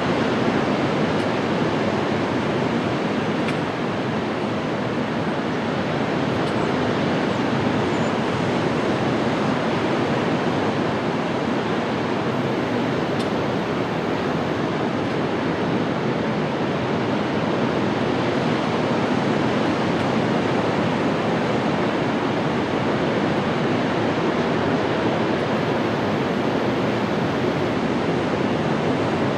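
Steady rushing of wind and water from a boat under way, with no distinct engine note or other events.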